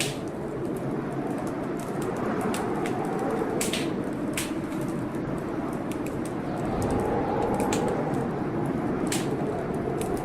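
Wood fire crackling, with frequent sharp pops scattered irregularly, over the steady rush of a storm that rises and falls slowly.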